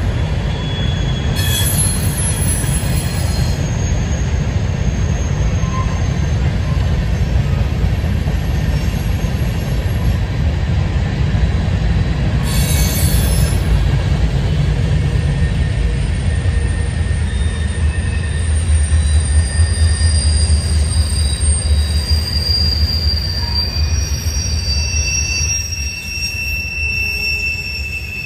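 Freight train of tank cars and covered hoppers rolling past with a steady low rumble of wheels on rail. Thin high-pitched wheel squeals come and go over it, most through the second half.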